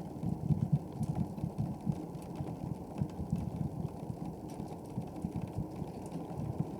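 Wood fire burning: a low, irregular fluttering rumble of the flames with faint, scattered crackles.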